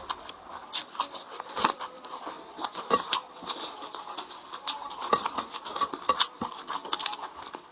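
Eating sounds: a person chewing, with irregular mouth clicks and smacks several times a second.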